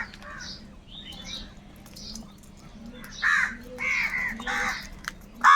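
Crows cawing: fainter scattered caws, then a run of three loud harsh caws about three seconds in, and the loudest single caw near the end.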